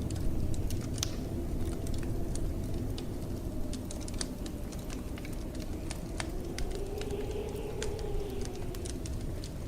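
Wood fire crackling with frequent sharp pops over the steady low rush of blizzard wind; a howl of wind swells and then falls away in the second half.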